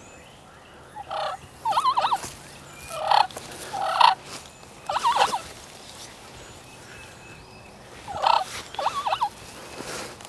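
Wild turkey gobbler gobbling several times in loud rattling bursts a second or two apart, with a longer pause before the last one.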